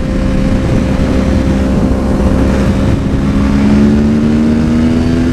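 Yamaha WR450 single-cylinder four-stroke motorcycle engine running under way, its pitch rising slowly and steadily as the bike accelerates.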